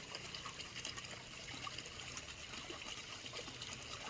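Faint, steady trickle of river water running along the bank.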